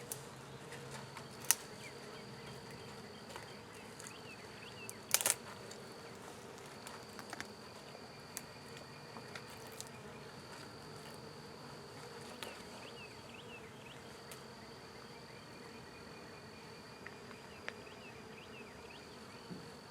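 Honey bees from a small swarm buzzing in flight close by, stirred up after being disturbed. There is a sharp knock about a second and a half in and a louder one about five seconds in, and a high steady trill comes and goes.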